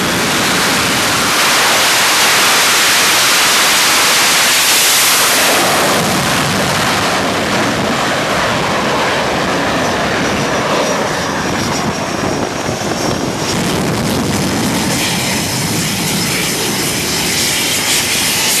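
F-18 jet engines running loud on a carrier flight deck: a heavy jet rush that swells in the first few seconds, then eases into a steady high-pitched whine.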